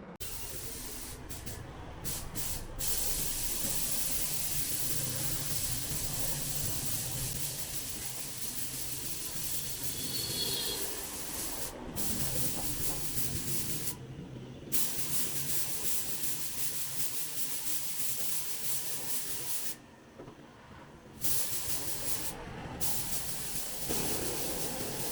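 Paint being sprayed: a steady hiss of spray that cuts off abruptly several times, briefly, as the spray is stopped and started again. A low steady hum runs beneath it.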